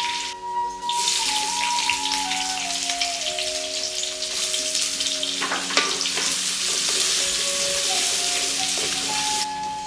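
Chopped onion sizzling in hot oil in a clay pot, the sizzle surging about a second in as the onion goes in, with the scrape of a wooden spatula stirring it about halfway through. A soft melody plays over it.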